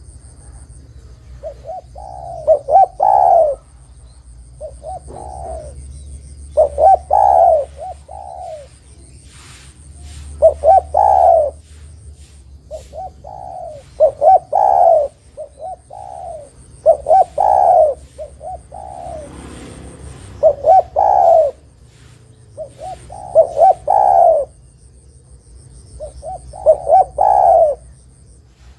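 Spotted dove (derkuku) cooing: short phrases of several hoarse coo notes, repeated about every three to four seconds.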